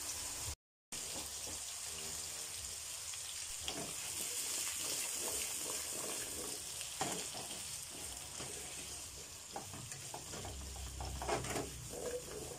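Cubed carrots and potatoes sizzling in hot vegetable oil in a nonstick pan, with scattered knocks and scrapes as the pan is tossed, coming thicker near the end.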